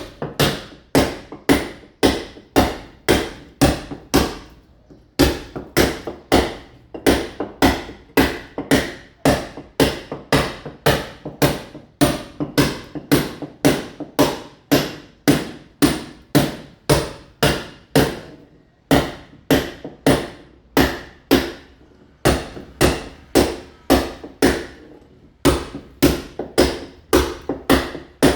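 Mason's hammer striking a masonry wall over and over, chipping (roughening) the surface to prepare it for ceramic tile. The blows land steadily about two to three a second, with a few brief pauses.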